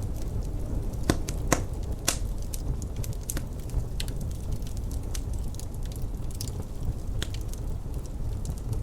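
Wood fire crackling in a fireplace: irregular sharp pops and snaps over a steady low rumble, the rumble likely the wind of the blizzard outside.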